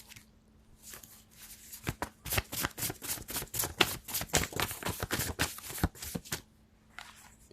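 A deck of reading cards being shuffled by hand: a dense run of quick papery clicks lasting about four seconds, starting about two seconds in, with a few lone flicks before it.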